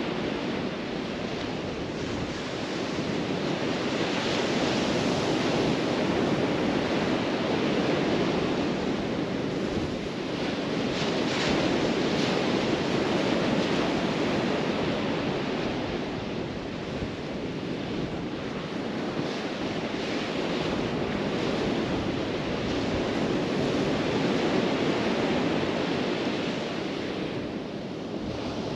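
Surf washing onto a beach: a steady rush of noise that swells and eases every several seconds as the waves come in.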